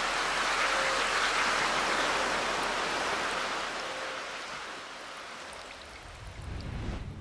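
Rushing water: a steady hiss that fades away over the last few seconds, with a brief low rumble near the end.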